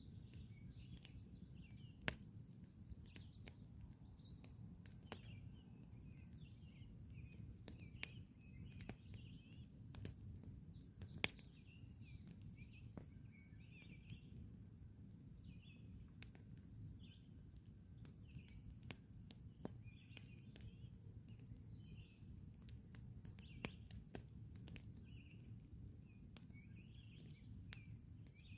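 Campfire crackling with scattered sharp pops, two louder ones about two and eleven seconds in, over a steady low background noise. Small birds chirp repeatedly in the background.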